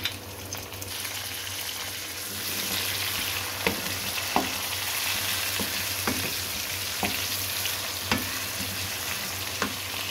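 Chopped tomato with onions and ginger-garlic paste sizzling in hot oil, the sizzle swelling about two seconds in as it is stirred. A spatula knocks and scrapes against the pot several times.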